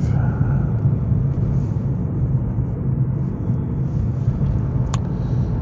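Steady low rumble of a moving car, its engine and tyres on the road heard from inside the cabin, with a single short click about five seconds in.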